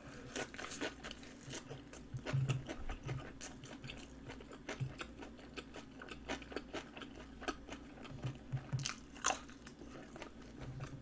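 Close-up chewing and biting with many small wet crunches, from a mouthful of seaweed-wrapped rice roll wrapped in napa cabbage kimchi.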